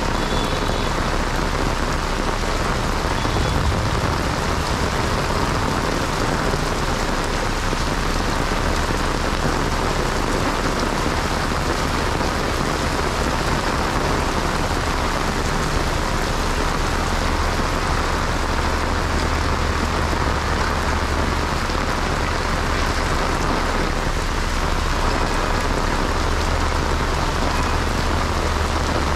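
Heavy monsoon rain pouring onto a flooded street, a dense, even hiss. A low rumble underneath grows stronger in the second half.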